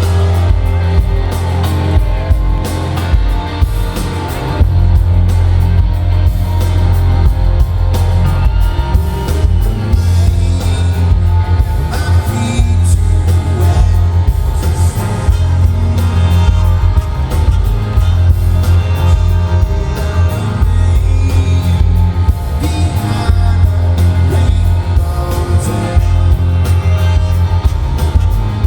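Live rock band playing, with electric guitar, very strong bass and singing.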